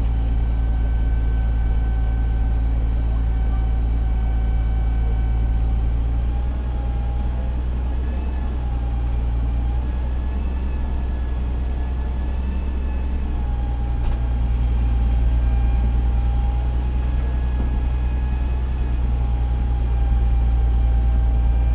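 Fire engine's diesel engine running steadily, with a steady whine above the low engine hum; the engine note eases slightly for a few seconds in the middle, then comes back up.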